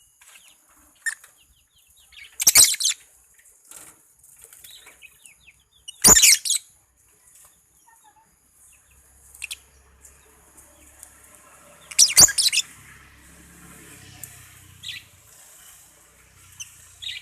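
Lovebird calling: three loud, shrill screeches a few seconds apart, with softer chirps in between.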